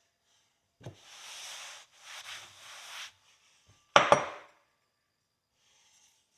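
Two stretches of scrubbing or scraping on a rusty horseshoe being cleaned by hand, each about a second long. Then two sharp metal clanks in quick succession about four seconds in, the loudest sounds here.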